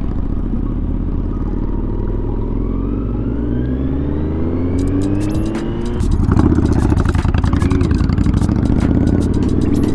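2023 Kawasaki Z900's inline-four engine running under way, its note climbing steadily; about six seconds in it gets louder, with a brief dip and recovery in pitch, then climbs again. Sharp crackling on the microphone is heard over it in the second half.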